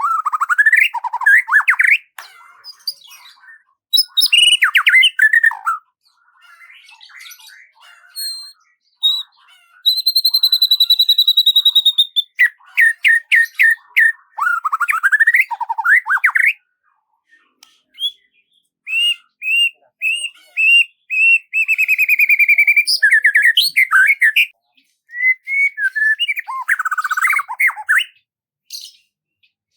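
Songbird singing varied phrases of clear whistled notes, slurred chirps and quick trills, each phrase separated by short pauses. Around the middle comes one long held whistle, then a fast run of repeated notes, and later a string of short upward-slurred notes ending in a trill.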